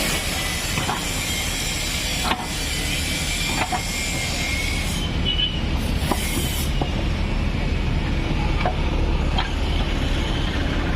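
JCB 3DX backhoe loader's diesel engine running steadily under load, with a few faint clicks and a hiss over the low rumble.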